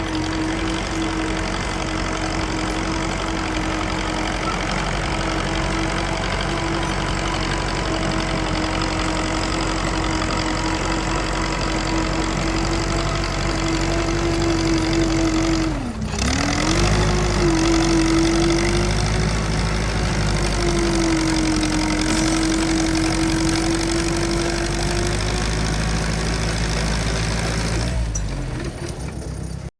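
An engine running steadily with a constant hum. About halfway through, its pitch sags briefly and recovers.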